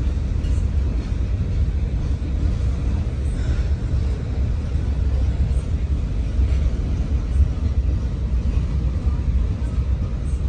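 Freight train of coal hopper cars rolling past, a steady low rumble with a few faint clicks.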